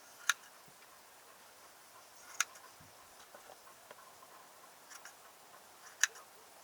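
A few sharp clicks over a quiet background: three louder ones a couple of seconds apart, with fainter ticks between.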